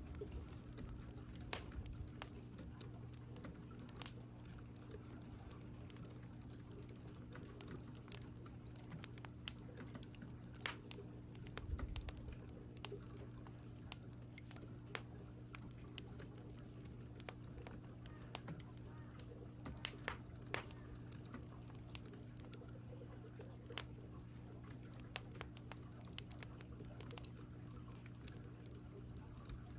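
Computer keyboard typing: irregular, scattered keystroke clicks over a steady low hum.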